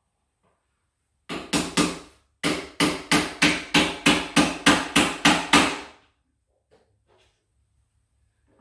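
Hammer blows on a wooden closet organizer unit: three strikes about a second in, a short pause, then a steady run of about a dozen strikes, three to four a second, stopping about six seconds in.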